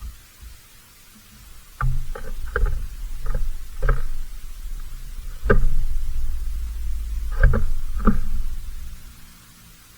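A series of about eight sharp knocks and bumps over a loud low rumble, close to the microphone, starting about two seconds in and dying away near the end.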